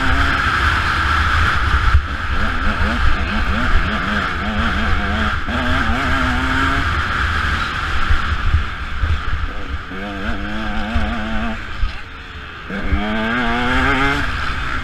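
Motocross bike engine revving up and down as the rider works the throttle and gears, with heavy wind buffeting on the on-board camera's microphone. Near the end the engine briefly drops off, then revs hard again.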